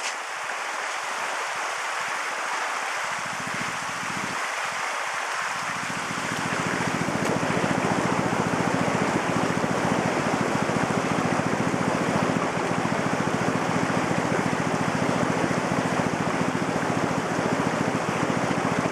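A motor tow's small engine running steadily from about three seconds in and getting louder about seven seconds in, over the steady hiss of rushing creek meltwater.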